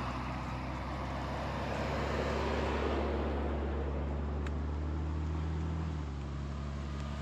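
A vehicle driving at a steady, low speed: a steady engine hum with road noise, easing off slightly near the end.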